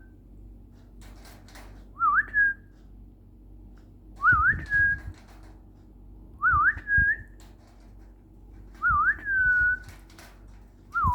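The same short whistled phrase, a quick dip and rise followed by a held note, repeated about five times, roughly every two and a half seconds.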